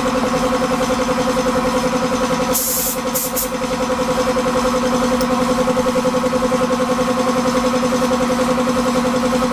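Air compressor motor running steadily with a fast pulsing hum, feeding a spray gun. Short hisses of the spray gun spraying paint come about two and a half to three and a half seconds in.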